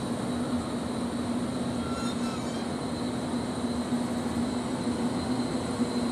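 JR Kyushu 783 series electric train rolling slowly into the station: a steady low hum over a rumble, with a faint short squeal about two seconds in.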